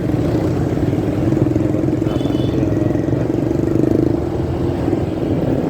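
Motorcycle riding noise picked up by a phone carried in a pocket: a steady, low engine drone mixed with rumble and rustle.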